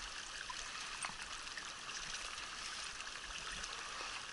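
Steady flowing water of a mountain trout river, an even rushing hiss.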